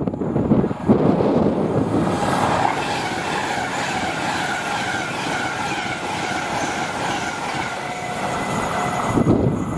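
A train passing on the line: a steady rush of wheels on rail, with faint thin high tones running above it.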